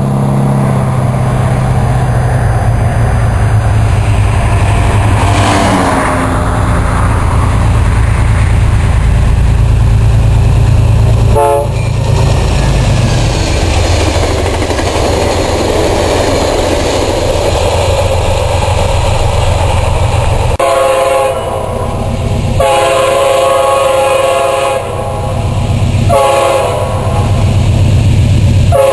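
An Amtrak passenger train passing close at speed: a Genesis diesel locomotive's engine rumble, then the cars running by over the rails. An Amtrak Genesis diesel locomotive then sounds its multi-chime air horn in three long blasts as it approaches.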